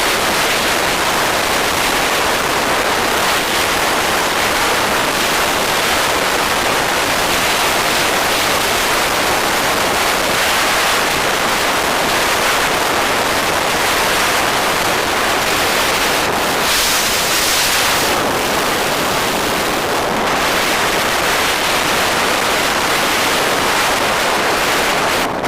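Steady rush of wind buffeting the microphone on a moving bike, with a brief swell in the hiss about two-thirds of the way through.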